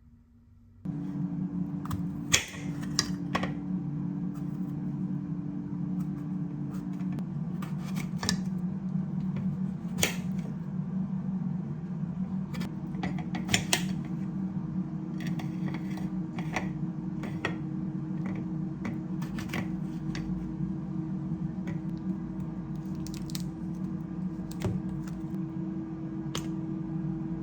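A steady low hum starts about a second in, with scattered sharp clicks and clinks over it, like dishes or utensils being handled.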